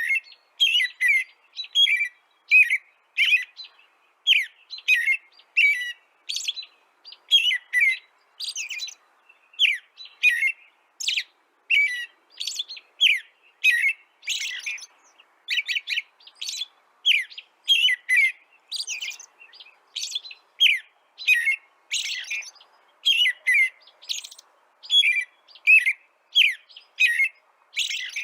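A small bird chirping steadily: short, sharp, falling chirps about two a second, repeated without a break.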